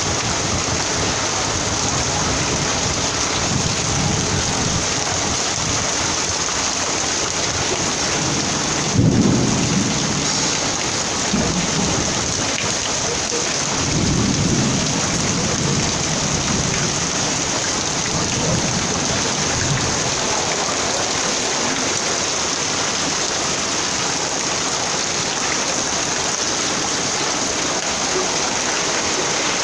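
Heavy rain pouring steadily, with thunder: a sudden crack rolling into a low rumble about nine seconds in, and another rumble around fourteen seconds in.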